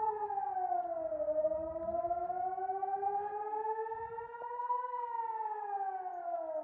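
Air-raid warning siren wailing: its pitch falls over the first second or so, climbs slowly for about four seconds, then falls again near the end. It is a rocket-attack alert.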